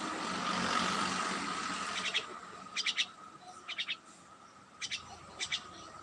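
A bird calling in short runs of three or four rapid, sharp chirps, about once a second from about two seconds in. Before that a steady hiss covers the sound.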